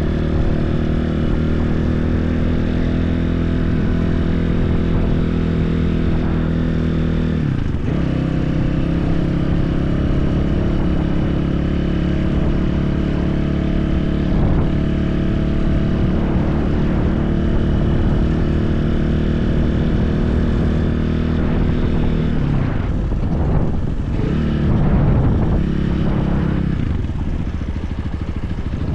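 BSE enduro motorcycle engine running steadily under way, with a short dip about a quarter of the way in and some rising and falling of the engine note near the end.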